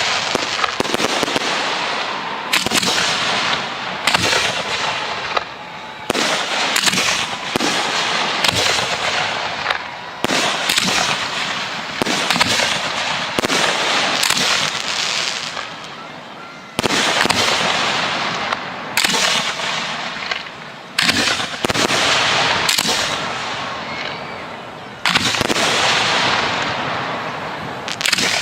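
Professional display fireworks going off without a break: shells bursting one after another, each burst followed by a dense crackle that fades, with a new loud burst every second or few.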